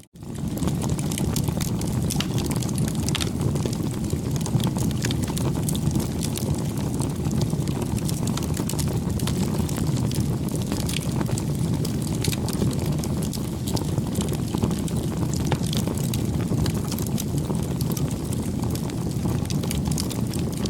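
Campfire burning: a steady low rumble of flames with many small crackles and pops scattered throughout. The sound cuts out for a split second right at the start.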